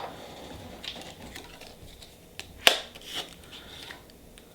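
Small clicks and taps from handling nail-stamping tools (stamper, stamping plate and polish), with one sharper click a little past halfway.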